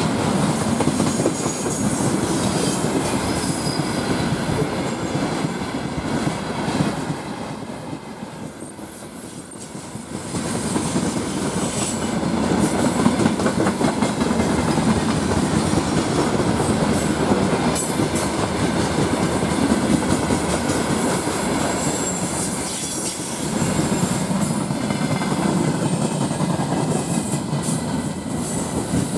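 A loaded freight train's tank cars and gondola wagons rolling past close by: a steady rumble with the clatter of wheels over the rail joints. From about four seconds in, a thin, high squeal runs for several seconds.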